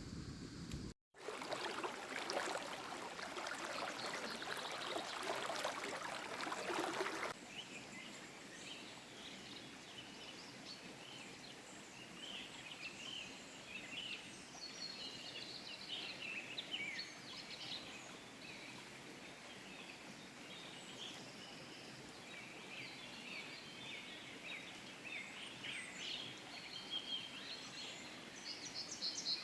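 Outdoor ambience by a stream: a loud, steady rushing noise that cuts off abruptly about seven seconds in, then small birds chirping again and again over faint background noise.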